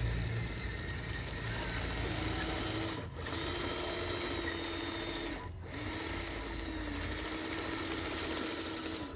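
Small electric motor of an RC construction model whining steadily, its pitch dipping and rising slightly, with two short breaks about three and five and a half seconds in.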